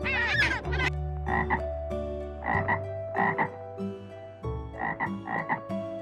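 A frog croaking: short calls repeated every second or so, several of them in quick pairs.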